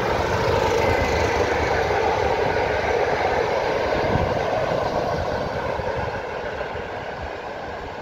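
Diesel locomotive hauling a short train of passenger coaches passing close by, its engine and wheels on the rails loudest about a second in, then fading steadily as the train moves away.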